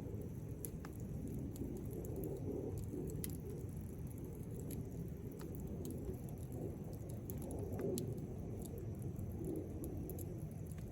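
Wood fire burning in a fire pit, with a steady low rush of flame and scattered sharp crackles and pops from the burning wood.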